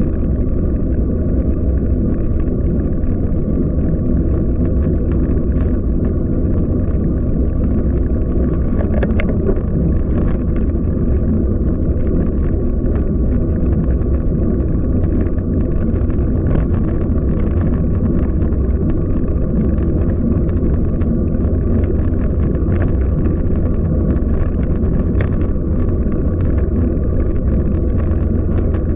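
Steady low rumble of wind and road noise while riding a bicycle through city streets, with a few faint short clicks scattered through it.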